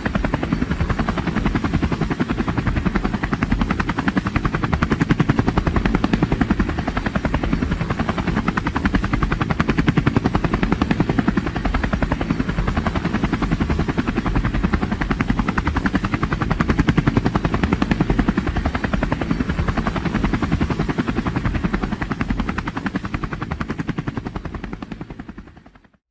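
Steady, rapid chopping of aircraft rotor blades close to the microphone, fading out near the end.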